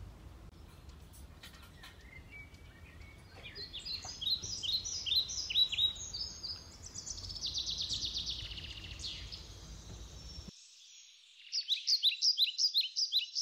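Songbirds singing in repeated quick phrases over a low steady rumble. About two-thirds of the way through, the rumble stops abruptly and a fast series of loud chirps follows.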